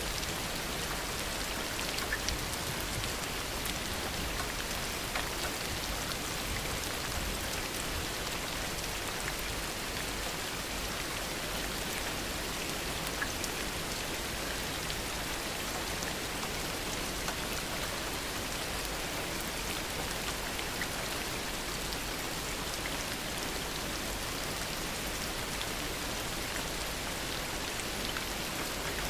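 Heavy rain falling steadily, an even hiss of rain with scattered individual drops ticking.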